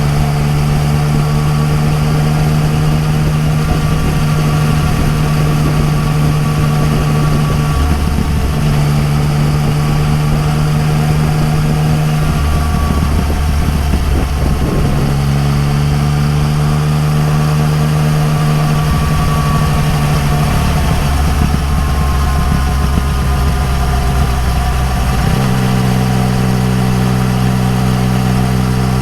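Yamaha MT-09 Tracer's inline-three engine running through an Akrapovič exhaust at riding speed, with a steady note that shifts in pitch several times as the throttle and gears change.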